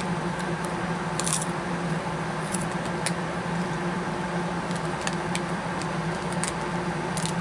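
Someone chewing crunchy candy-coated popcorn, with about eight short, crisp crackles scattered over a steady low hum.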